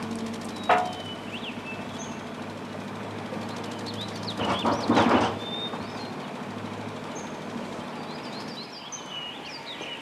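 Birds chirping here and there over a steady low hum, with a sharp short sound under a second in and a brief louder noise about five seconds in.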